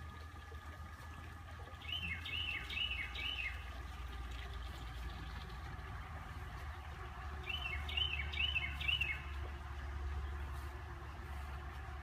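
A songbird singing two short phrases, each a quick run of four repeated notes, a few seconds apart. A low steady rumble runs underneath.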